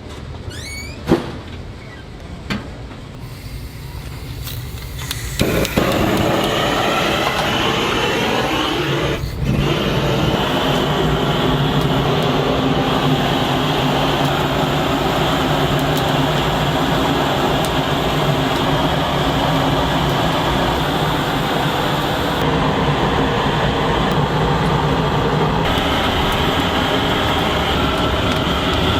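A few clicks and knocks, then a machine starts about five seconds in and runs with a loud, steady motor hum and whir.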